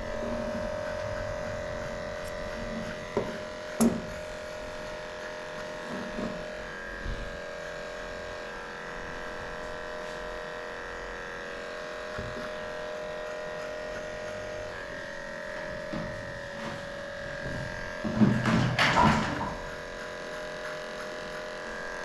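Electric dog-grooming clippers running steadily with an even hum while shaving off a matted coat. A few light clicks, and a louder, noisier stretch for about a second and a half around 18 seconds in.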